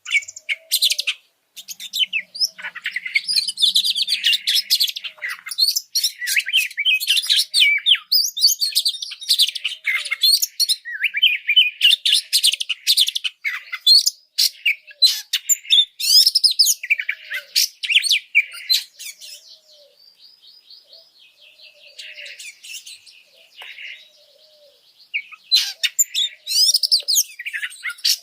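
Oriental magpie-robin (kacer) singing a loud, fast, varied song of whistles and chattering phrases in a fired-up, aggressive mood. About two-thirds of the way through, the song drops for a few seconds to softer rapid notes, then returns to full volume.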